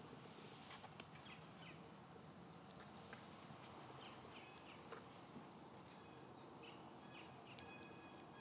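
Near silence: faint outdoor ambience with a few distant, high bird chirps scattered through it.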